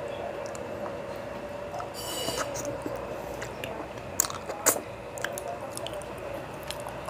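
Close-miked mouth sounds of a man eating fish and rice with his hand: wet chewing and sucking, with two sharp smacks a little past four seconds in as he puts food to his mouth.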